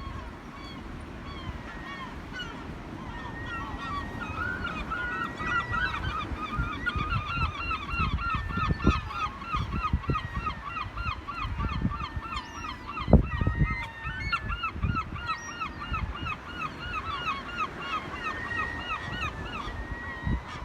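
A flock of gulls calling: several birds giving rapid series of short yelping calls, about five a second, mixed with longer drawn-out calls. The calling builds over the first few seconds and thins out in the second half. Low thumps and rumbles sit underneath, the loudest about two-thirds of the way through.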